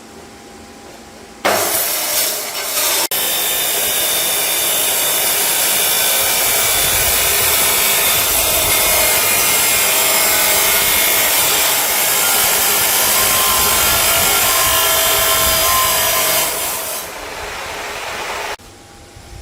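A handheld power tool, such as an angle grinder, working on metal: a loud, steady hissing grind with a shifting whine. It starts about a second and a half in, breaks off briefly once, then runs steadily, drops a little near the end and cuts off.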